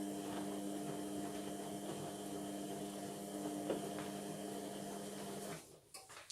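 Indesit washing machine running mid-cycle with a steady electrical hum that stops suddenly about five and a half seconds in, followed by a couple of faint knocks.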